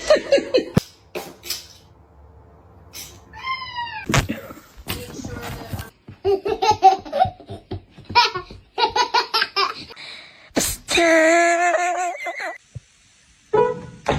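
People laughing in quick rhythmic bursts, spliced from several short clips with abrupt cuts between them.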